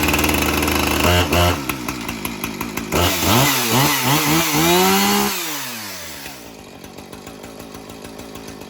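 Husqvarna 455 Rancher two-stroke chainsaw running just after a cold start, taken off choke. It runs steadily at first, is revved up and down several times about three seconds in, then drops back to a quieter steady idle.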